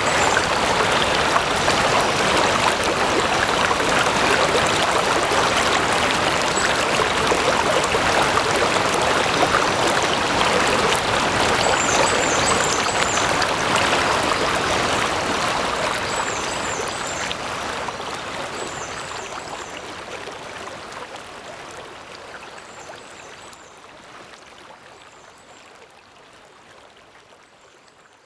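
Stream water flowing and burbling steadily, with a few short high chirps in the middle, then fading out over the last dozen seconds.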